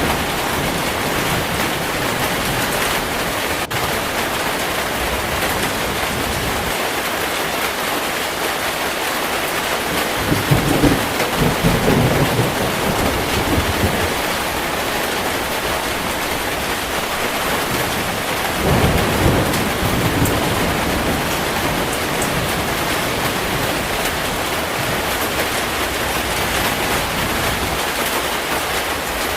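Heavy rain pouring steadily, with thunder rumbling low twice, about a third of the way in and again about two-thirds through.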